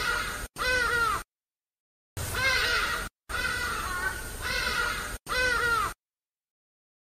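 An animal's loud, repeated calls, each arching up and then falling in pitch, played as the same short recording several times with silent gaps between.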